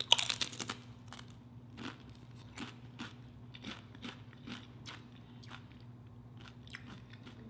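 A crisp tortilla chip bitten with a loud crunch, then chewed with scattered crunches that thin out over several seconds.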